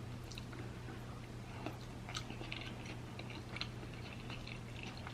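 A person chewing food close to the microphone, with faint, scattered wet mouth clicks and smacks.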